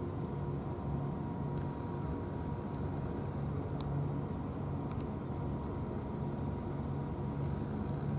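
A steady low engine hum with a thin, constant whine above it, unchanging throughout, with a couple of faint clicks near the middle.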